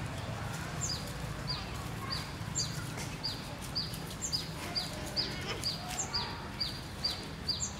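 A bird chirping over and over: short high notes that each fall in pitch, two to three a second, over a low steady background hum.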